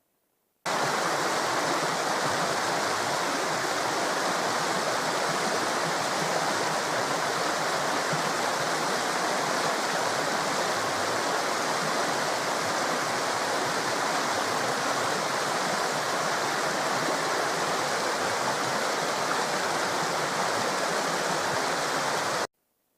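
Steady rushing of a flowing river or stream, cutting in abruptly about a second in and cutting off just before the end.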